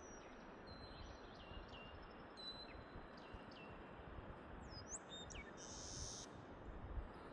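Birds calling faintly: a series of short, high whistled notes, several ending in a quick downward slide, with a brief hissing note about six seconds in. Under them runs a steady low rushing background noise.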